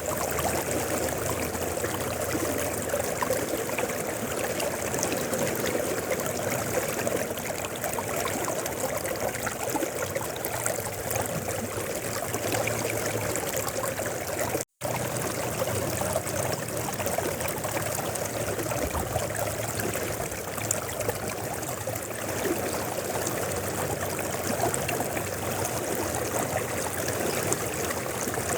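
Mountain river flowing steadily, a continuous rush and babble of water over rocks, with a split-second break in the sound about halfway through.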